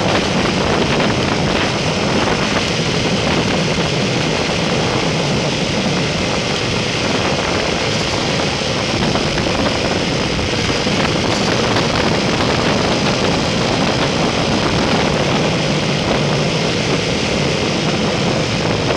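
Motorcycle under way on the road: a steady engine drone mixed with wind rushing past, at an even level throughout.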